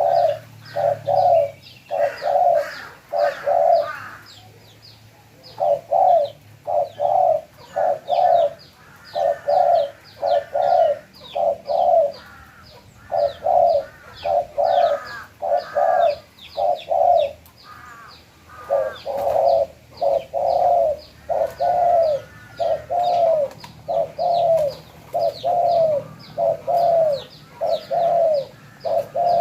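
Spotted dove cooing over and over, in runs of short coos about two a second with brief pauses between runs. A smaller bird chirps rapidly and faintly behind it.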